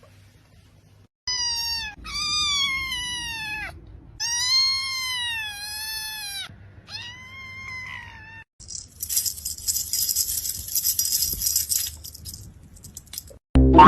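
Domestic cat meowing: three long, drawn-out meows that rise and fall in pitch, then a shorter one. A few seconds of high hissing noise follow, and a loud knock comes just before the end.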